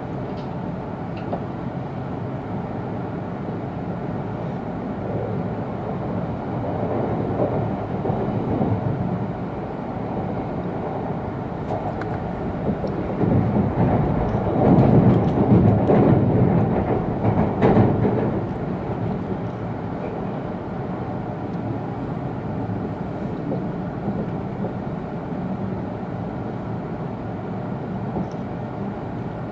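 Running noise heard inside an E2 series Shinkansen passenger car: a steady rumble of wheels and track, swelling louder for about five seconds midway through.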